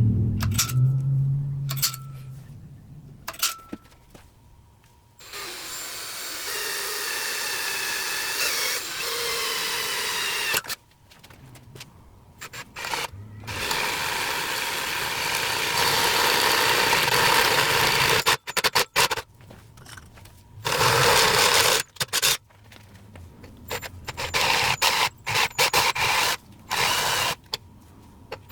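A power tool running in several bursts of a few seconds each, with a few sharp clicks before the first burst and shorter on-off bursts near the end.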